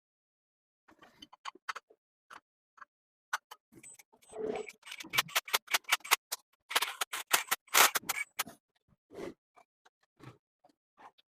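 Irregular sharp clicks and light knocks, coming in a fast dense run of taps through the middle and sparser before and after.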